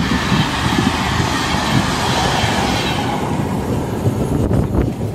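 Another train passing close alongside, heard from inside a railway coach through its window: a loud rumble and rattle of wheels on rails, with a rushing hiss that fades about three seconds in as the train clears.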